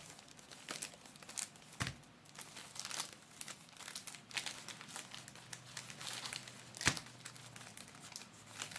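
Foil booster-pack wrappers crinkling and crackling as they are handled, with irregular sharp crackles, the loudest about two seconds in and near the end.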